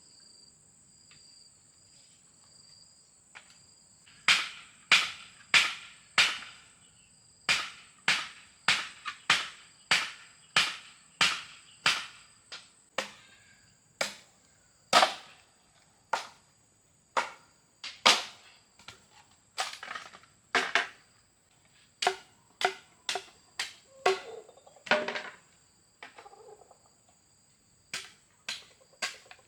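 A long series of sharp strikes, about one to two a second, beginning about four seconds in, some with a short ringing knock. Underneath, a steady high insect drone.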